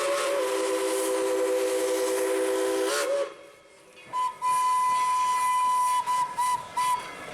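Steam locomotive whistles. First comes a long chime blast of several notes at once with steam hiss, held for about three seconds. After a short pause a higher single-note whistle is held for about two seconds, then ends in three short toots.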